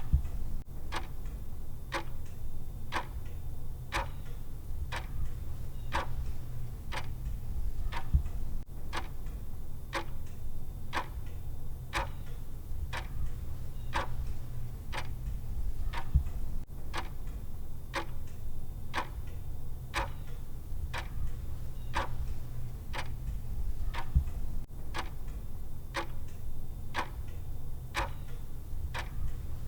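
Countdown timer's clock tick sound, one sharp tick about every second, over a steady low rumble.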